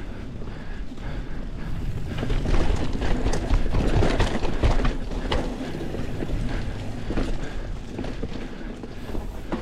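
Mountain bike being ridden over a dirt trail: tyre noise with the bike clattering and knocking over bumps, loudest between about two and five seconds in.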